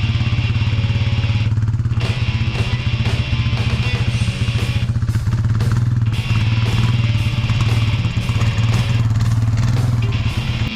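Vehicle engine running steadily at an even pitch, with music playing over it.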